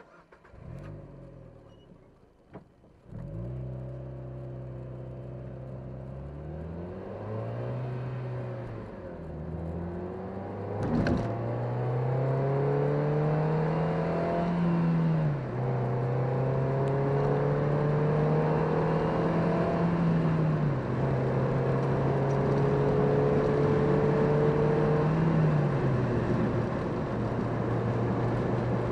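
PGO Cévennes roadster's engine, heard from the driver's seat, pulling and accelerating up through the gears: the engine note climbs steadily, then drops back at each of several upshifts. A single short click about eleven seconds in.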